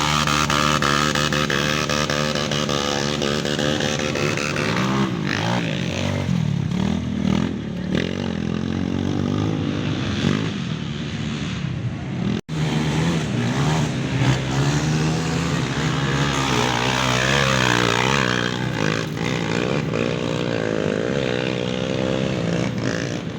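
Off-road trail motorcycle engines revving, their pitch rising and falling. The sound drops out sharply for a moment about halfway through.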